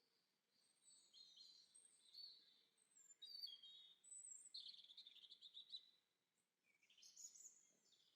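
Faint birdsong: a songbird's high chirps and trills in quick phrases, pausing about six seconds in before another short phrase.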